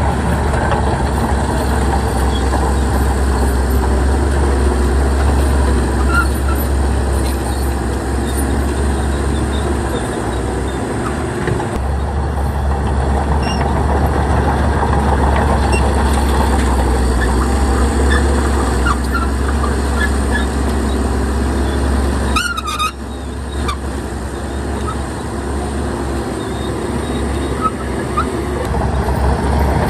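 Heavy diesel earthmoving machinery running steadily under load, a deep constant engine hum. About three quarters of the way through the engine note dips briefly and a short high squeal sounds.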